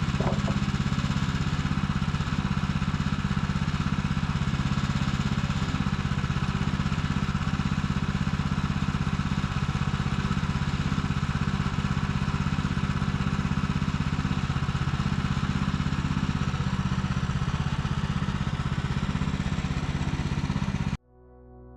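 Small gasoline engine of a portable sawmill running steadily while boards are milled, cutting off abruptly near the end; soft music comes in after it.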